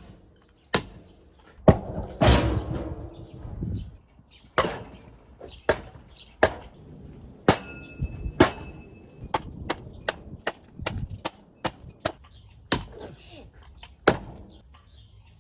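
Axe splitting firewood: a string of sharp wooden knocks at uneven intervals, with a longer clatter of split wood about two seconds in.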